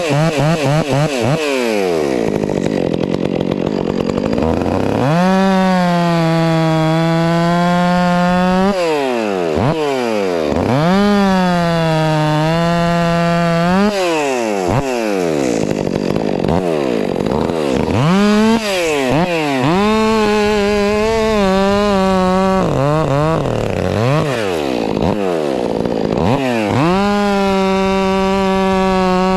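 Stihl MS 400 C two-stroke chainsaw cutting firewood: the engine revs up to full throttle and holds steady through four long cuts, dropping back toward idle between them with short blips of the throttle.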